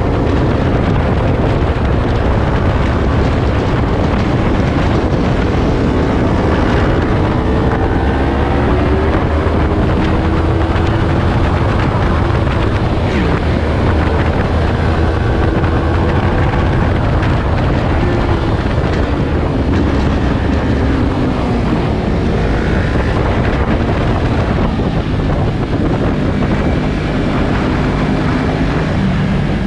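Yamaha R3's 321 cc parallel-twin engine running at speed, its pitch rising and falling again and again as the bike accelerates and shifts and slows, under heavy wind rush on the microphone.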